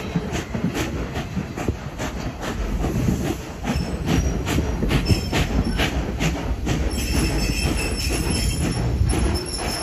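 Train cars rolling along behind a working steam locomotive: a steady low rumble with a quick, uneven run of clicks and knocks from the wheels and running gear. About seven seconds in, a faint high-pitched wheel squeal comes in as the train takes the curve.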